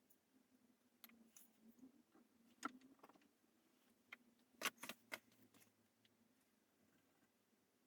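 Faint, scattered clicks and taps of small hard objects being handled, the loudest a quick pair of sharp clicks just under five seconds in, over a faint steady hum.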